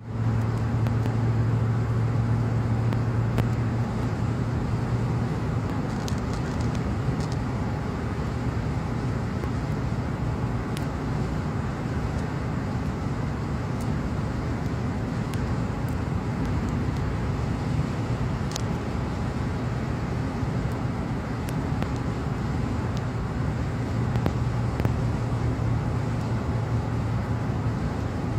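Car driving at highway speed heard from inside the cabin: steady road and tyre noise with a low, even hum from the drivetrain, and a few faint clicks.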